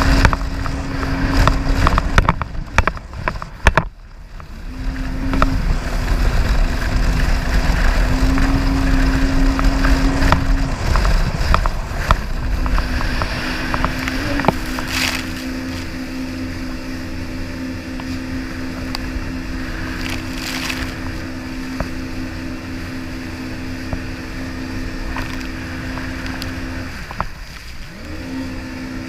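Jet ski engine running at a steady pitch. It dips briefly about four seconds in, settles into a held tone, and drops again briefly near the end. Wind rumbles on the microphone during the first few seconds.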